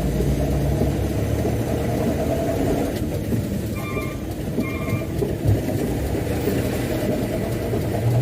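Mitsubishi Canter dump truck's diesel engine running steadily under a heavy load of sand, with two short horn beeps about four and five seconds in.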